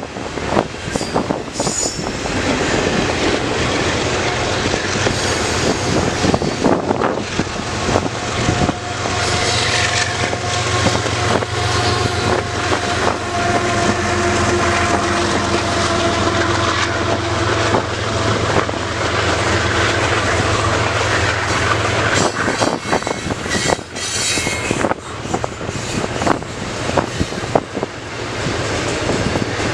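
Double-stack intermodal container cars of a CN freight train rolling past: a steady rumble of steel wheels on rail with quick clicks over the rail joints, and a steady ringing tone through the middle stretch.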